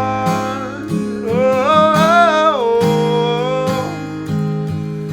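Strummed acoustic guitar under held, wordless sung notes that glide between pitches through most of the stretch.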